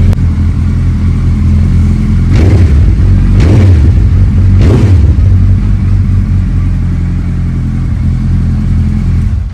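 Suzuki Hayabusa's inline-four engine idling through aftermarket Yoshimura exhausts, blipped three times in quick succession in the first five seconds. The sound cuts off suddenly near the end.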